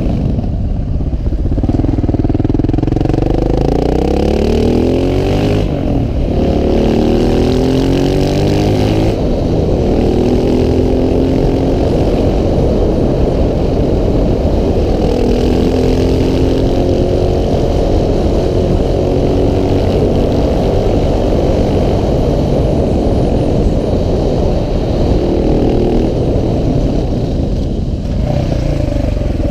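KTM 690 SMC R single-cylinder supermoto engine pulling hard, its revs rising and dropping back again and again as the bike accelerates and shifts gear.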